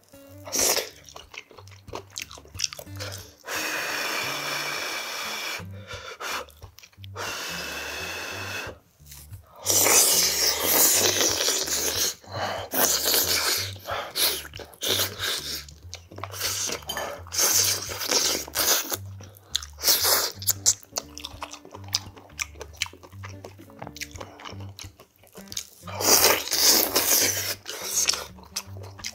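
Close-miked chewing and biting as a man eats pork-bone meat from gamjatang, with irregular loud crunchy bites clustered in the middle and again near the end. Soft background music runs underneath.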